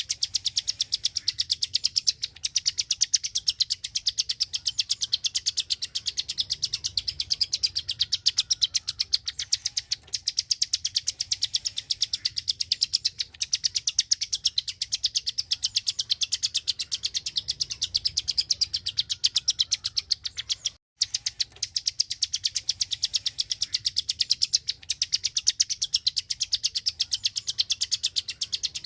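A small songbird, the bird Indonesian keepers call 'klik-klik', giving a fast, unbroken run of sharp, high, evenly spaced clicks, with a momentary break about twenty seconds in.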